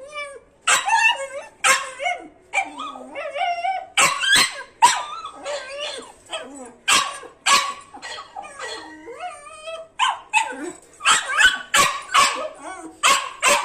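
A dog barking over and over, the sharp barks mixed with high, wavering whines and yips.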